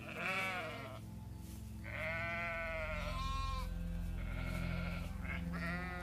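Goat bleating: several short, wavering bleats, the third one higher-pitched, over soft ambient background music.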